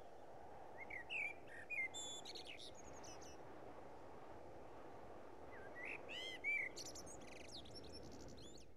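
Birds chirping in two short spells, the first about a second in and the second around six seconds in, over a steady faint ambient hiss.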